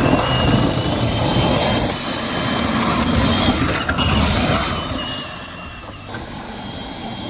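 Power Wheels ride-on toy monster truck driving off: the electric motor and plastic gearbox whir while the wheels rumble over the ground. The sound starts abruptly and eases off after about five seconds.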